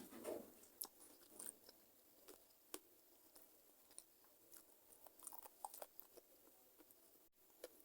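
Quiet close-up chewing of chicken feet: a bite at the start, then scattered small crunches and wet mouth clicks.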